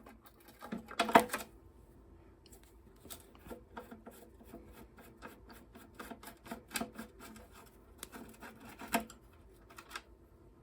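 Ratchet wrench with a 5/16 socket clicking in quick runs as bolts on a lawnmower engine's fuel tank and top cover are loosened, with a louder metal knock about a second in and another near the end.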